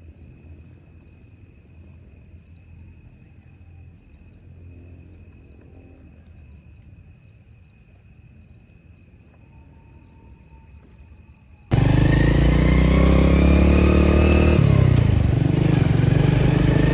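Crickets chirping steadily at night. Then, after an abrupt cut near the end, a motorcycle engine runs loudly under way, its note dipping and climbing again about three seconds after it starts.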